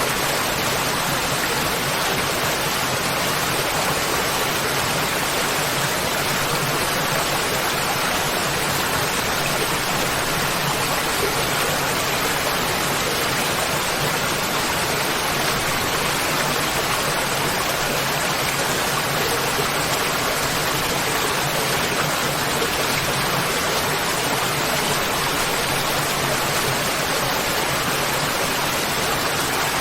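Waterfall: water falling and rushing in a steady, even hiss-like roar with no change.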